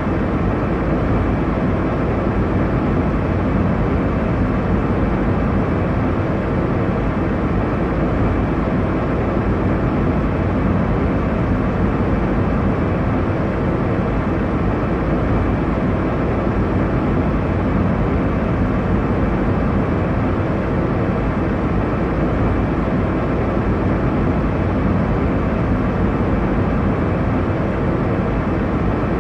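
Airliner cabin noise in flight: a steady, deep, even drone that does not change.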